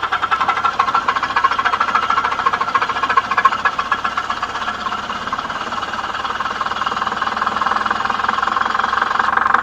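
Diesel engine just started in extreme cold, running with a rapid, loud clatter, uneven at first and then settling into a steadier run.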